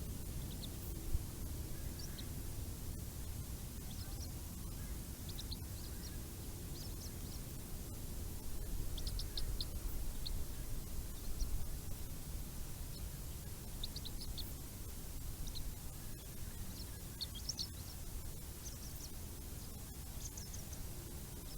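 Birds giving short, high chirps, singly and in quick little runs, over a steady low rumble.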